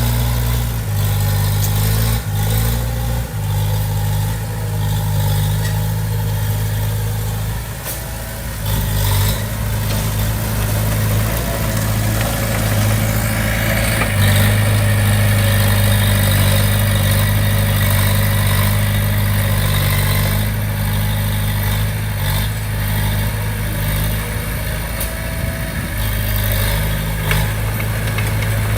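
Small crawler bulldozer's diesel engine running steadily at work, with a few sharp knocks in the first third.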